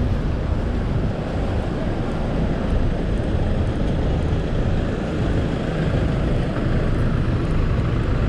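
Steady rumble of busy city street traffic, with no single vehicle standing out.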